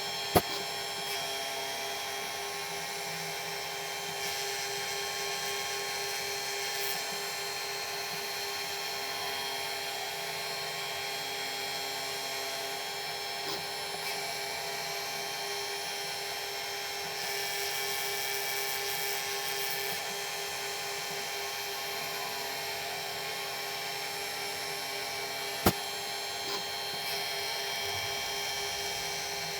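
Small milling machine running steadily with a high whine as its cutter shapes a radius on a small metal part. Two sharp clicks, one just after the start and one about 25 seconds in.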